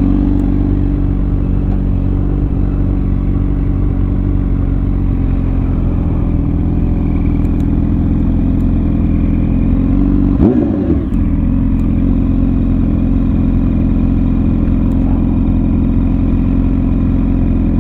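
Honda Shadow 750's V-twin engine running steadily under way. There is a brief dip and rise in pitch about ten seconds in.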